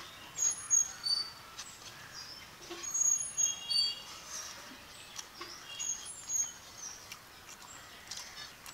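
Small birds chirping: short, high chirps come repeatedly and irregularly, some clusters louder than others.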